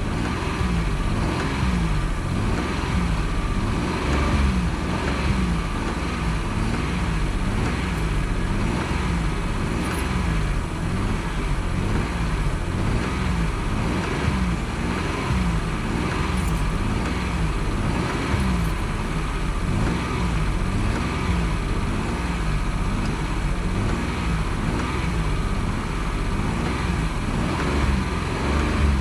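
Car engine running under a driver's foot, its pitch rising and falling over and over as the accelerator is pumped or eased.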